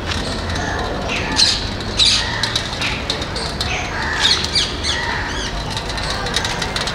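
Birds calling in the trees: many short, shrill calls that dip in pitch, repeated throughout, over a low steady background rumble.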